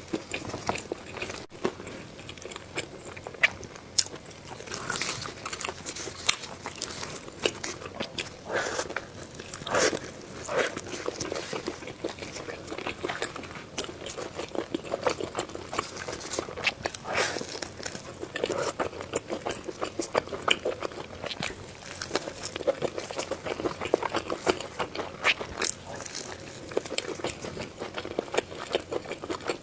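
Close-miked eating: a person bites and chews food, with irregular crunchy clicks and crackles and wet chewing throughout.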